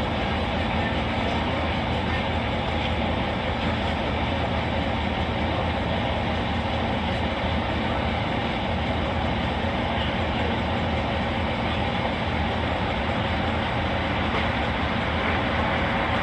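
Steady hum of a parked police squad car idling, heard from inside the car.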